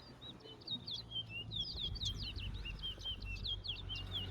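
A caged racing songbird singing one long, rapid string of high, sweeping whistled notes, each note sliding quickly up or down. It is a single song of the kind counted one by one in a bird-singing race.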